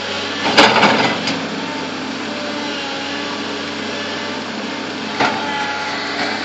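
Bulldozer's diesel engine running steadily, with a loud knock about half a second in and a shorter one a little after five seconds.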